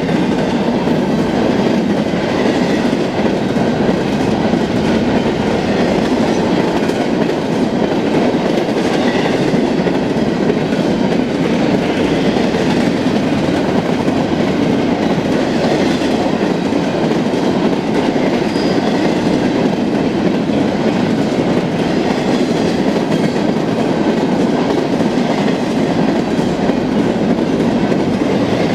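BNSF freight train's cars rolling past on the rails in a steady rumble, with faint high wheel-squeal tones over it.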